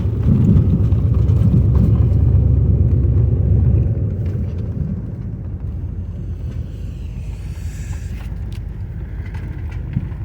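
Car running with a low rumble, louder for the first four seconds, then settling to a steadier, quieter rumble.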